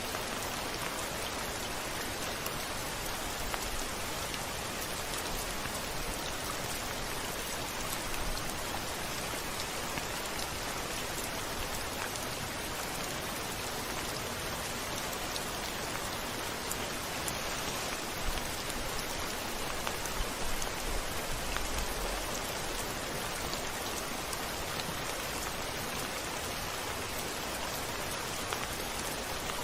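Steady rain pattering on a window, an even hiss of drops throughout. A brief low rumble swells up about two-thirds of the way through.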